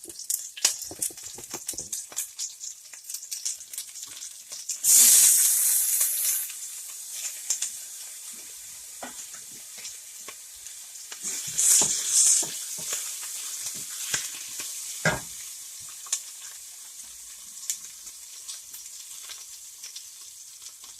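Mustard seeds, cumin, curry leaves and green chilies sizzling and crackling in hot coconut oil in a pan, being stirred. The sizzle surges into loud hissing about 5 s in and again about 12 s in, with one knock about 15 s in.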